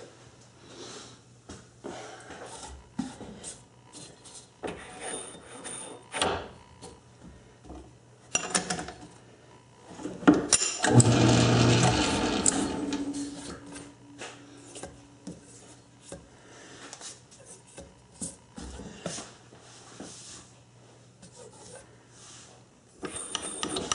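Metal lathe parts and tools being handled in a workshop: scattered clicks, knocks and rubbing, with a louder rushing noise lasting about two seconds near the middle.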